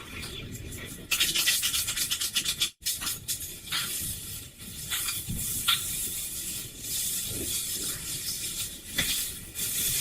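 Rubbing and scraping, with a fast run of scraping strokes for a couple of seconds, then lighter rubbing broken by a few sharp clicks.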